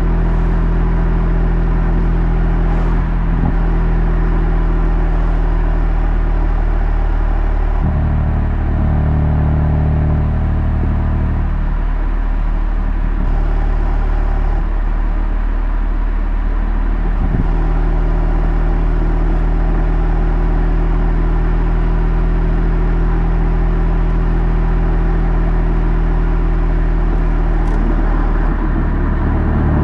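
BMW M3 F80's twin-turbo straight-six engine and exhaust droning steadily while cruising. Its note steps up and down several times, around a third of the way in, again shortly after, and near the end.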